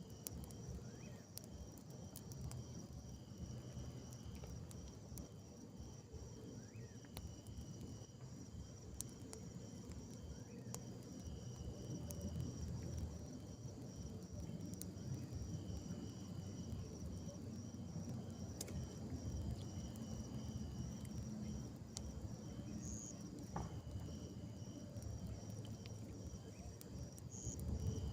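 Insects chirping in a steady pulsed trill at two pitches, over a low, uneven rumble.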